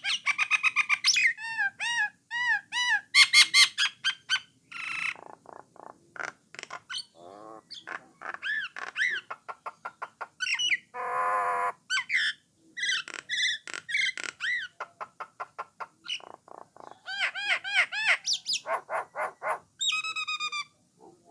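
Jalak Nias (jalak coklat) myna singing a long, varied song: quick series of repeated arched whistles mixed with sharp clicks and a harsh, buzzy chatter note about halfway through.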